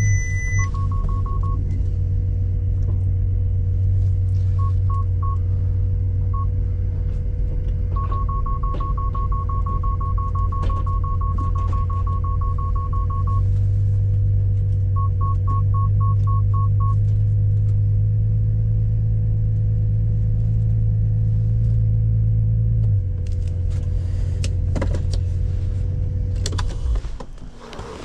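Bentley Continental's engine running at low speed, heard from inside the cabin, under a car's warning beeps that come in short groups and then as a fast unbroken beeping for several seconds. These are typical of parking sensors closing in on an obstacle. The engine note drops and then cuts off shortly before the end.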